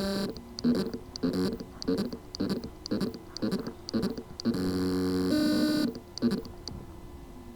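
WD Green 3.5-inch SATA hard drive with loose spindle motor contacts trying to spin up: a buzzing pulse repeats about twice a second, broken by a short held whine at the start and again about four and a half seconds in. It is the sign that the motor can spin but cannot reach full speed.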